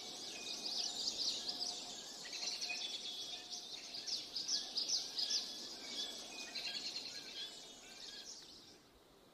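Wild songbirds chirping and singing in quick high notes, fading out near the end.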